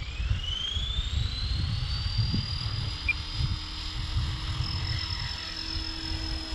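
Align T-Rex 470 electric RC helicopter spooling up: the motor's high whine rises steeply in pitch over the first couple of seconds, then holds steady, with a lower steady tone joining about two and a half seconds in. Wind rumbles on the microphone throughout.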